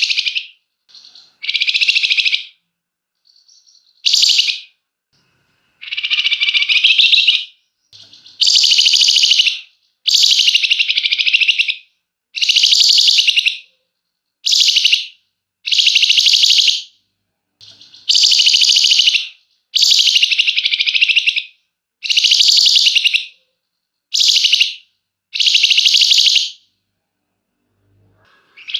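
Flamboyan songbird singing long, rapid, tightly packed trills (the 'ngebren' style prized by bird keepers), about a dozen high phrases a second or so long with short pauses between.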